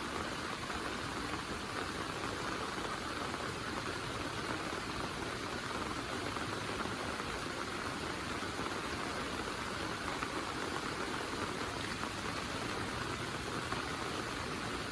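Heavy rain falling steadily, an even hiss of drops with no pauses or lulls.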